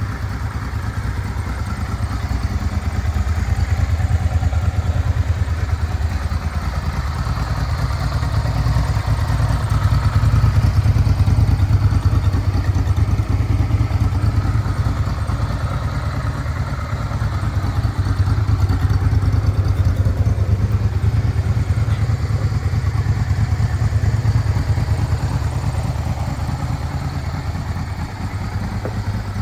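Honda NTV 600 Revere's liquid-cooled V-twin engine idling steadily, with its loudness swelling gently a couple of times.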